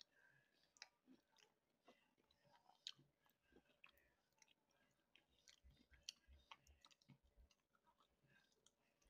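Faint close chewing of fried chicken, with many small scattered mouth clicks.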